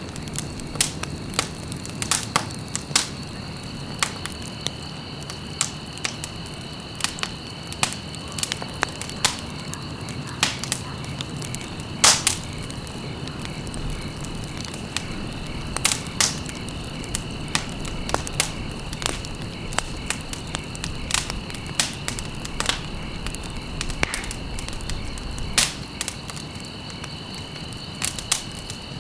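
Wood fire burning in a fireplace, crackling with irregular sharp pops and snaps over a steady low rumble, with one louder pop about twelve seconds in. A faint steady high-pitched tone runs underneath.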